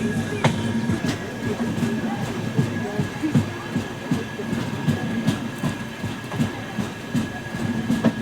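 Passenger train running on the rails: a steady rumble and clatter with scattered clicks from the wheels and track.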